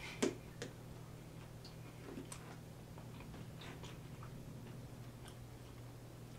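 Close-miked eating sounds: one loud sharp bite about a quarter second in and a softer one just after, then scattered faint mouth clicks of chewing, over a steady low hum.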